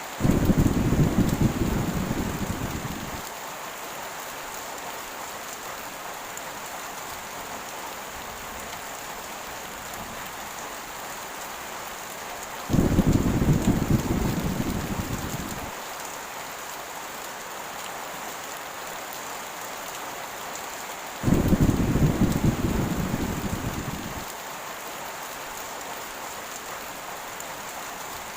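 Heavy rain falling in a steady hiss, with three rolls of thunder: one right at the start, one about thirteen seconds in and one about twenty-one seconds in, each starting suddenly and fading away over about three seconds.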